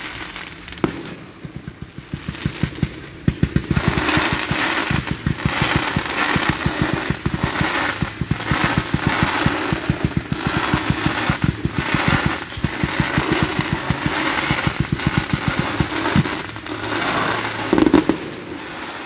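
Fireworks crackling and popping in a rapid, dense string of many small reports a second, with a sharp crackling hiss swelling over them. A single heavier bang comes near the end.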